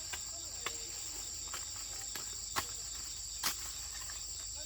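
Insects trilling in a steady, high, unbroken chorus. A few sharp clicks or snaps sound over it, the two loudest about two and a half and three and a half seconds in.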